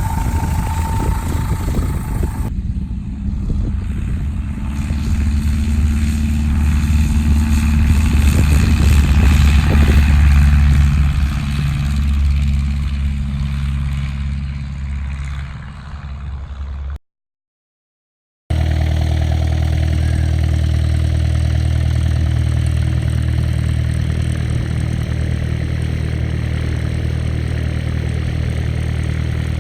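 Cessna 140A's small piston engine running. It grows louder over several seconds, peaks and fades away, then after a brief cut runs at a steady pitch.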